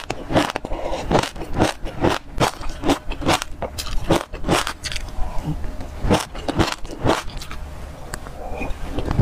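Close-miked crunching of passion fruit seeds being chewed: sharp, irregular crunches, a few a second.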